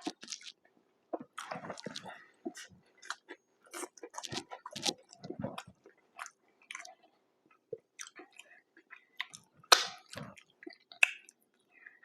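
A person chewing and biting fast food up close, with irregular wet, squishy mouth sounds and small crunches, one louder bite about ten seconds in.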